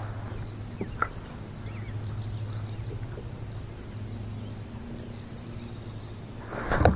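Quiet open-water ambience: faint high bird trills twice over a steady low hum, with a short sudden loud noise just before the end.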